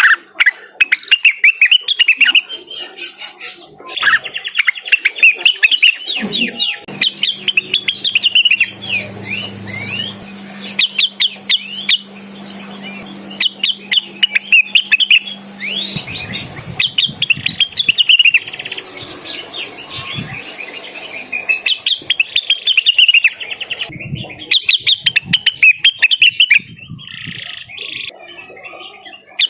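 Blue-winged leafbird (cucak wilis) singing in full, vigorous song, the kind used to call out a rival: rapid runs of high, sharp, sweeping chirps in phrases of a few seconds, broken by short pauses.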